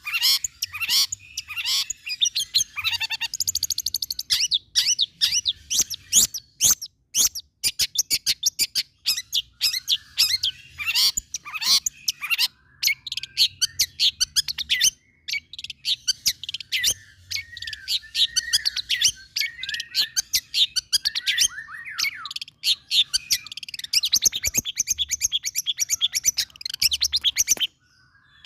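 Long-tailed shrike (cendet) singing a fast, varied song of chirps and trills, with brief pauses about halfway through and near the end.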